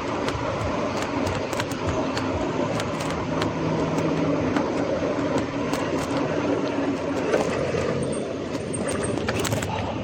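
Gravel bike rolling over a rough street surface: a steady tyre rumble with frequent rattling clicks from the bike.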